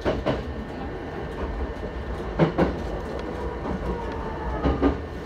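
JR East E129 series electric train running, heard from inside the car: a steady low rumble, with paired clacks of the wheels over rail joints three times, about every two seconds. A faint rising whine comes a little before the end.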